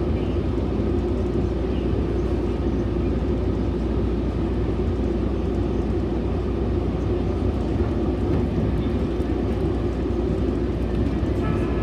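Metrolink commuter train in motion, heard from on board: a steady low rumble of the running train.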